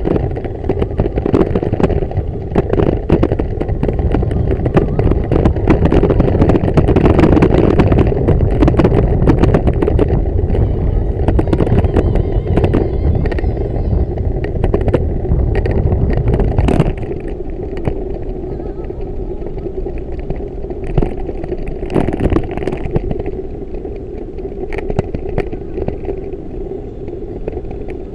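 Wind rushing and buffeting over the microphone with road rumble while riding a bicycle. It eases noticeably about two-thirds of the way through.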